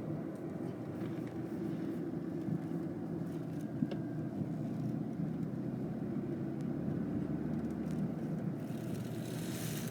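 Road noise inside a moving car's cabin on a wet road: a steady low rumble of engine and tyres, with a hiss that swells near the end.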